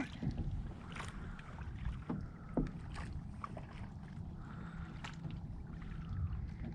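A small boat on the water: a steady low rumble with scattered light knocks and clicks.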